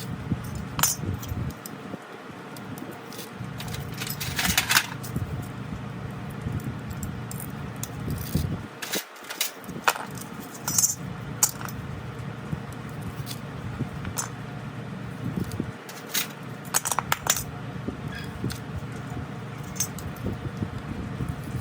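Small metal parts and tools clinking and tapping, in scattered short strikes with a brief ring, some of them louder, over a low steady background.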